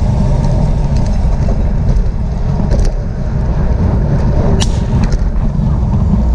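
Steady low wind rumble buffeting the microphone, with a few brief clicks about three and four and a half seconds in.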